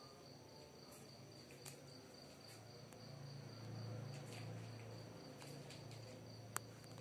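Faint, steady high-pitched insect trilling, typical of crickets, with a low hum that swells in the middle and a single sharp click near the end.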